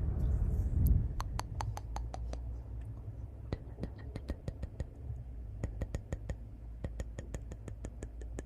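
Wood fire in a fireplace crackling: irregular sharp pops and snaps over a steady low rumble, with a louder surge of the rumble in the first second.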